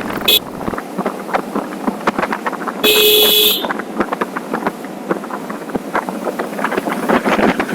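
Wind buffeting the microphone on a moving motorcycle, with a vehicle horn giving a short toot at the start and a longer honk of under a second about three seconds in.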